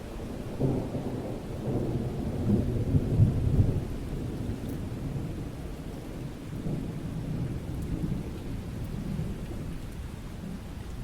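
Rolling thunder over steady rain. A low rumble builds about half a second in, peaks around three seconds, then fades, and a weaker swell of rumbling follows in the second half.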